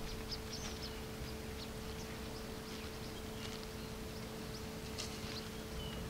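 Birds giving short, scattered high chirps and clicks, over a steady low hum.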